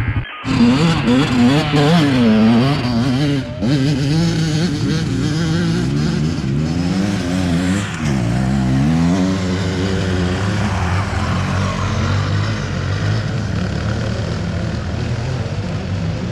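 Motorcycle engine revving up and down over and over as it is worked on loose dirt, then running steadier for the last several seconds. There is a brief dropout just after the start.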